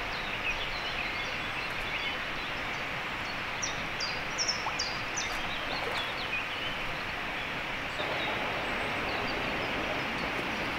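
Steady outdoor background noise, with a small bird calling a few quick, high chirps about four to five seconds in.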